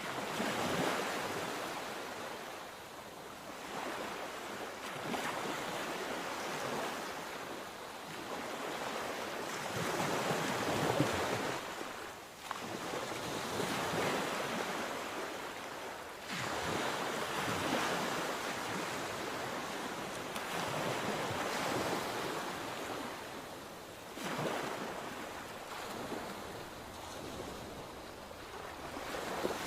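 Sea waves breaking and washing up the shore, a steady surf that swells and ebbs every few seconds, with some wind on the microphone.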